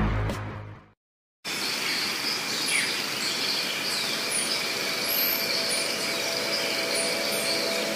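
Music fades out, followed by a brief silence. Then outdoor ambience: steady high insect trilling, with scattered short, high bird chirps.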